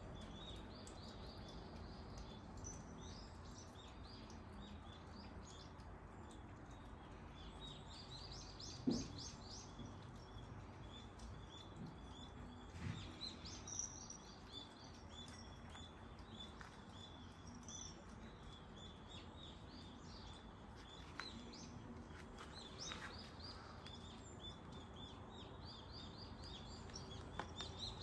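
Small birds chirping in repeated quick series throughout, over a quiet steady background. There is a single short knock about nine seconds in.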